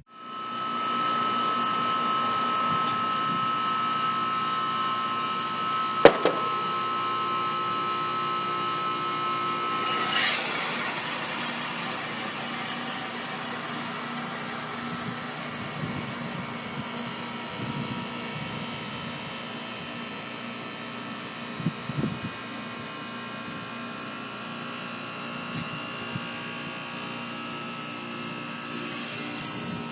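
Outdoor heat pump unit running with a steady tone, then about ten seconds in a loud rushing hiss as it switches into its defrost cycle and the tone stops. A lower steady hum carries on after that.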